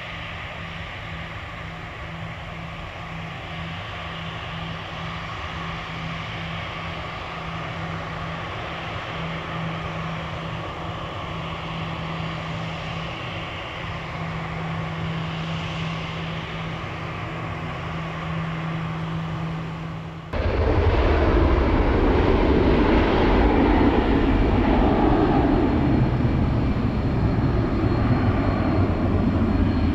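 Jet airliner engines: a steady rumble with a low hum for about twenty seconds, then a sudden jump to a much louder, deeper rumble.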